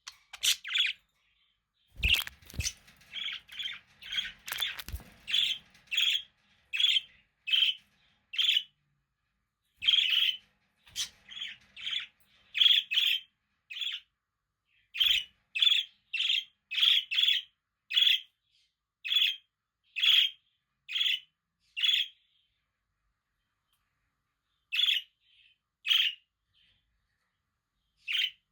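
Budgerigars chirping: a string of short, sharp chirps, one or two a second, with a pause of about two seconds near the end. A few soft knocks come between about two and five seconds in.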